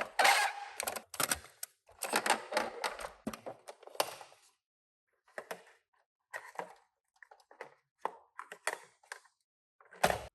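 Irregular clicking, clattering and brief rustling as small die-cast Tomica cars and their plastic packaging and carrier are handled, with short pauses between bursts.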